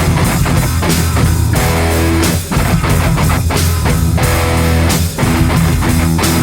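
Instrumental heavy metal/hard rock music: a distorted electric guitar riff over bass guitar and a drum kit.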